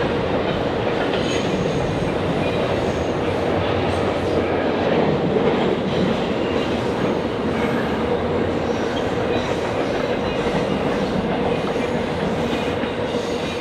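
Train rolling past on the rails, a steady loud rumble of cars and wheels.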